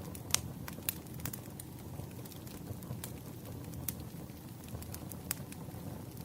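Campfire burning: a steady low rumble of the flames with irregular sharp crackles and pops from the wood, a loud pop about a third of a second in.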